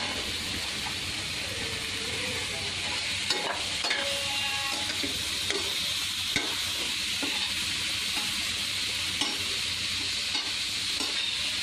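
Shredded cabbage sizzling in hot oil in a kadhai as it is stir-fried with a spatula, a steady hiss broken by a few sharp scrapes and taps of the spatula against the pan.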